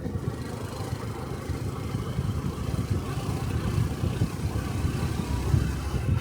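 Honda 125 cc Cub motorcycle's single-cylinder engine and exhaust running steadily while riding, heard from a camera worn on the rider, with a low rumble.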